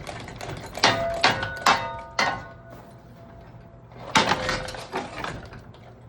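Metal ceiling fan being struck hard: four sharp metallic clanks about half a second apart, each ringing briefly, then one more hit about four seconds in.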